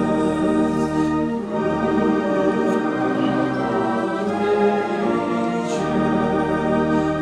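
Organ music: slow sustained chords held and changing every second or two, played softly under an altar call.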